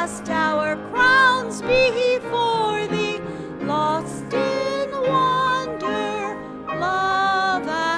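Music during a church service: a voice singing long, held notes with vibrato over sustained low accompanying notes that change every second or two.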